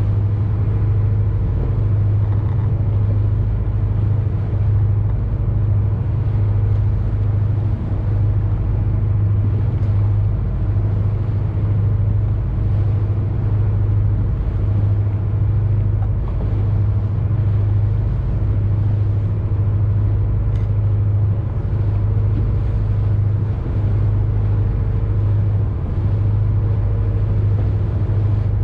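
A boat's engine running steadily with a constant low drone.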